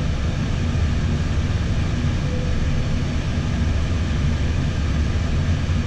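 Steady noise inside an Airbus A320's cockpit while taxiing: a constant low rumble from the running jet engines, with airflow and fan hiss over it and a faint steady hum.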